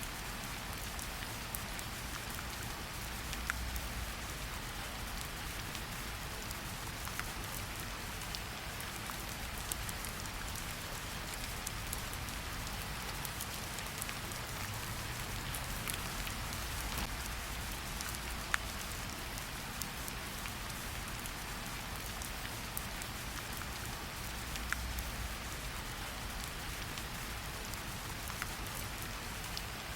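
Steady rain falling, with the crisp ticks of individual drops hitting leaves and surfaces scattered through an even hiss.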